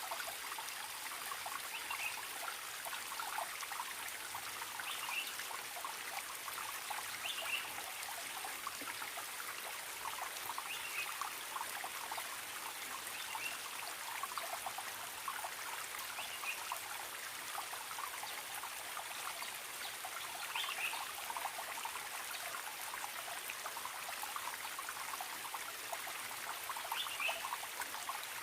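A forest stream trickling and babbling steadily, with short high chirps from a wild bird repeating every two to three seconds.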